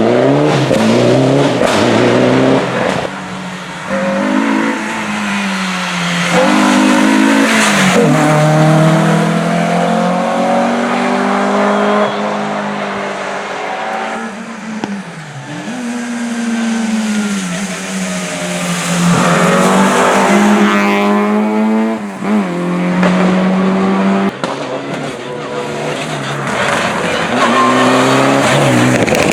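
Rally car engine revving hard on the stage, its pitch climbing and dropping again and again with gear changes and lifts, with a few sharp cracks in between.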